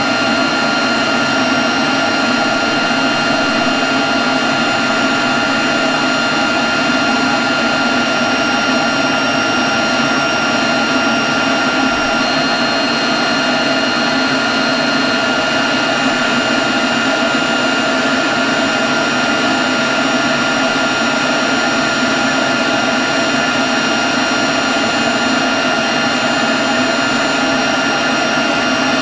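Leaf blower running steadily at constant speed: a rush of air with a steady high whine on top.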